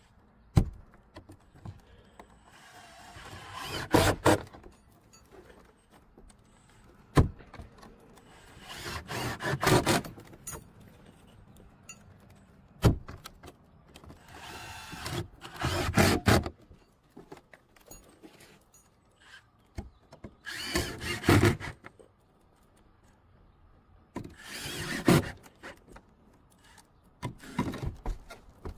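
Tool work on wood: repeated bursts of cutting or drilling lasting a second or two each, about every five to six seconds, with single sharp knocks in between.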